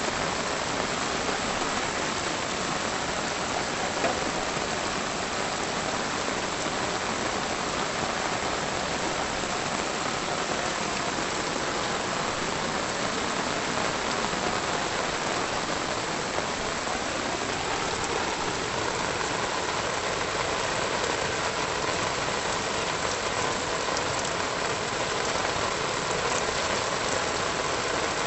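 Steady rain falling, an even hiss with no let-up, and one small tap about four seconds in.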